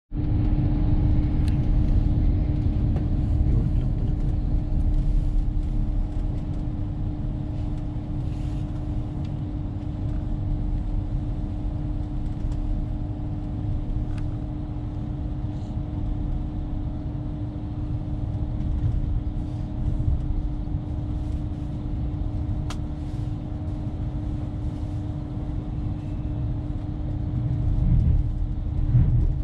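Inside the passenger coach of a moving Lumo Class 803 electric train: a steady low rumble of wheels on the track with a steady hum over it, growing a little louder near the end.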